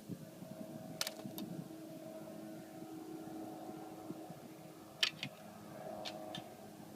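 Faint, steady engine hum, with a few sharp clicks or knocks about a second in, around five seconds in and again near six seconds.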